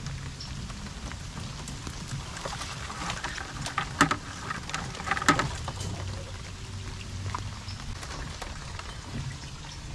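Water dripping and lapping around a small skiff, with scattered light drips and a few sharper splashes or knocks about four and five seconds in, over a low steady rumble.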